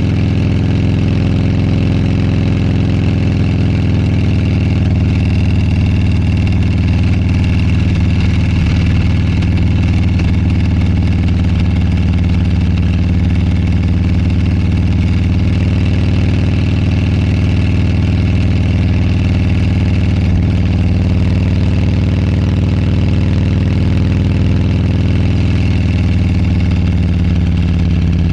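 Motorcycle engine running steadily on the move, with a few slow, slight shifts in pitch.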